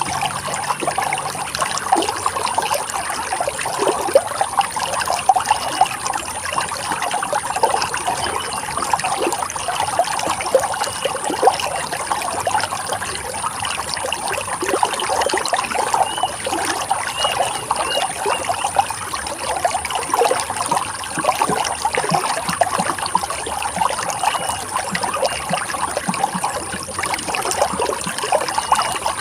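Running stream water trickling and splashing steadily, a busy patter of many small splashes with no pauses.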